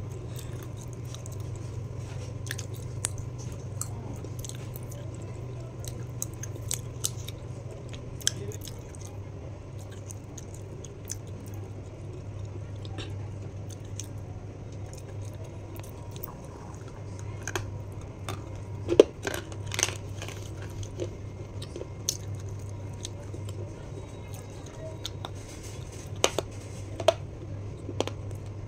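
Close-miked mouth sounds of a person chewing and crunching something brittle, with scattered sharp crunches, the loudest about two-thirds of the way through and several more near the end, over a steady low hum.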